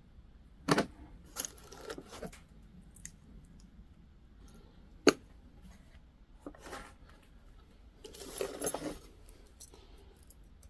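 Small metal jewelry pieces clinking and rattling against each other as they are sorted by hand, with one sharp click about five seconds in and a longer jangle near the end.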